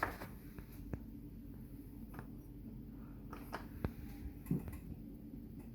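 Bosch dishwasher running on a test start after its E15 fault (water in the base) was cleared: a low steady hum with a few light clicks.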